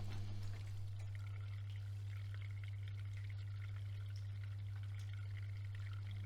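AEG Öko-Lavamat 76730 washing machine taking in water early in its cycle: water pouring and splashing into the drum over a steady low electrical hum.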